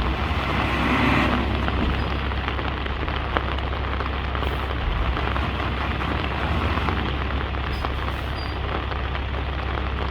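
Bulldozer's diesel engine running steadily with a low rumble as it pushes soil, swelling louder about a second in.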